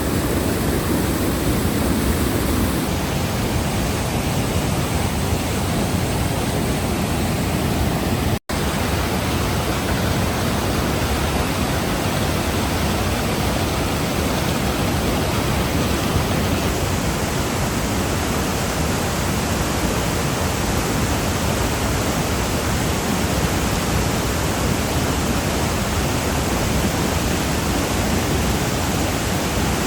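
Rushing water, a steady, even noise, broken by an instant's dropout about eight seconds in.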